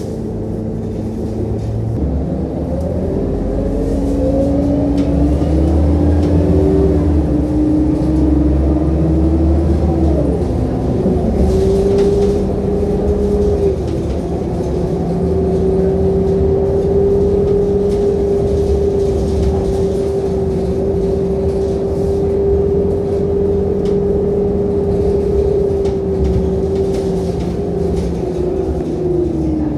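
Scania K230UB bus's five-cylinder diesel engine and driveline heard from inside the cabin. It pulls away with the pitch rising through the first ten seconds and a gear change near the tenth second, then cruises with a steady whine that falls away near the end as the bus slows.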